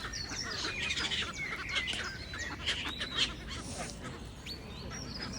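Many birds calling at once: a dense chatter of short, high chirps and whistles overlapping throughout.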